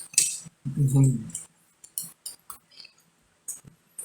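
Eating sounds at a meal: a string of sharp, separate clicks and clinks of cutlery against dishes and mouth smacks, after a brief voiced sound in the first second and a half.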